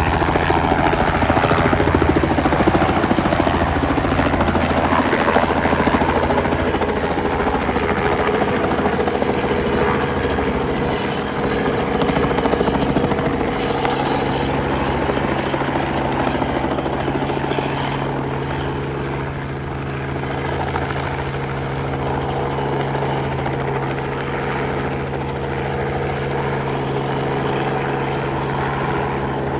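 Robinson R44 helicopter running, its six-cylinder Lycoming piston engine and rotor making a steady, pitched drone. The level eases off slightly about two-thirds of the way through.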